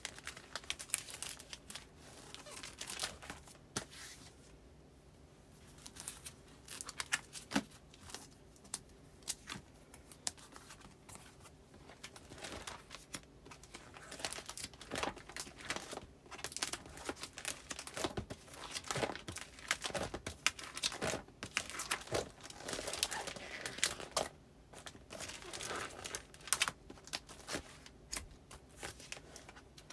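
Postcards and paper goods being handled and slid into the plastic pockets of a file, rustling and crinkling in irregular bursts with small taps, with a brief lull about five seconds in.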